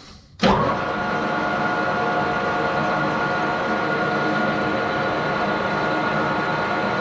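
A metal lathe running steadily with a mechanical whine of several steady tones, coming in abruptly about half a second in.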